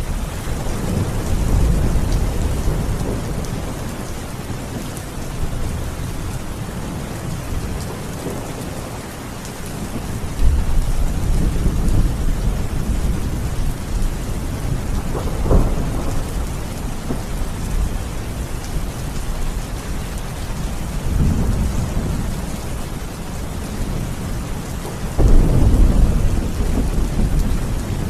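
Steady rain with repeated low rolls of thunder, a sharper one about ten seconds in and the strongest rumble near the end.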